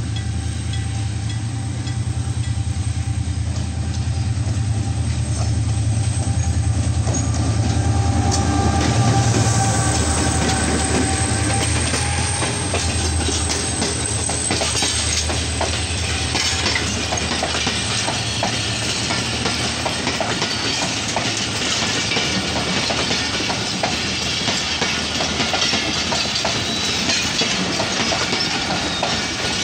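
A diesel-hauled passenger train passing at close range: a low engine rumble as the locomotive comes up, then a steady clickety-clack of the coach wheels over the rail joints as the coaches roll by.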